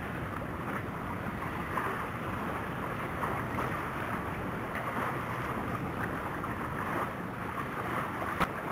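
Steady rush of wind and water around a sailing yacht racing under way, with one sharp knock near the end.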